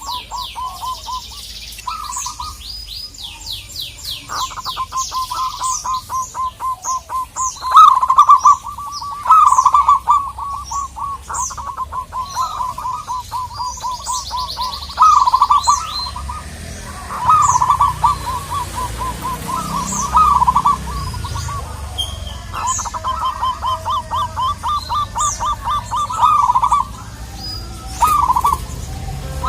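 Zebra doves cooing: long trains of rapid staccato notes, broken every second or two by louder rolling phrases. Thin, high, falling chirps from another small bird sound over them.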